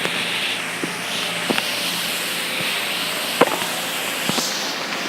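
Steady rushing noise with a handful of short, sharp clicks scattered through it, the loudest about three and a half seconds in.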